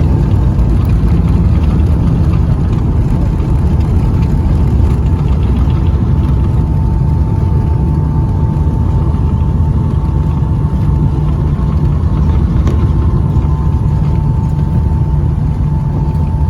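Boeing 757-200 cabin noise: the jet engines and rushing air make a steady loud rumble with a steady whine on top.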